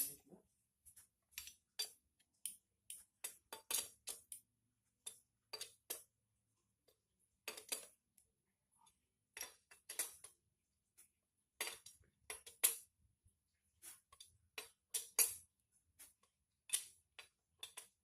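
Irregular sharp metallic clicks and clinks of tools and engine parts being handled and fitted during motorcycle engine assembly, one to three a second with short pauses between.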